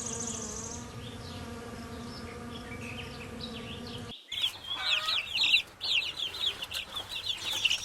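A wasp buzzing steadily for about four seconds. After an abrupt cut it gives way to chicks peeping, a rapid run of short high-pitched cheeps.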